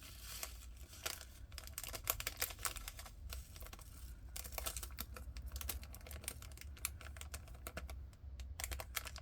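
Diamond painting drills, tiny plastic rhinestones, pouring and rattling through a plastic funnel into a storage container as a dense, irregular patter of small clicks.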